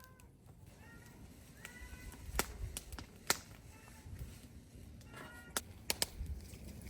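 Short pitched animal calls, about half a dozen in a row, with a few sharp knocks in between.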